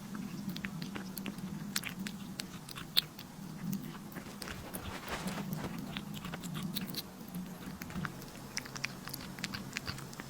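A pet chewing and crunching, heard as many irregular sharp crunches and clicks, over a steady low hum.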